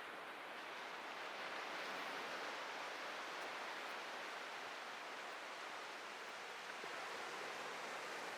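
Atlantic ocean surf washing onto the shore: a steady rushing hiss of breaking waves that swells over the first two seconds and then holds.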